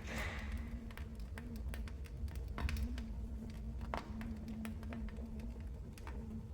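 Fire burning in a fireplace, crackling with irregular sharp pops and snaps over a low steady rumble of the flames.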